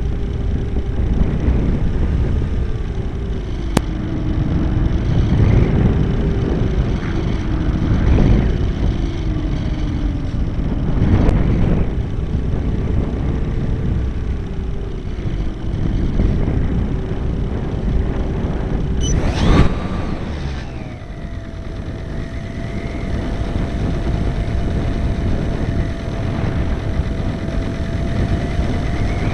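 Model airplane's motor and propeller running in flight, with heavy wind rumble on an onboard microphone. The motor's pitch wavers up and down with throttle; about two-thirds of the way through there is a brief rising sweep, after which it settles into a steadier, higher tone.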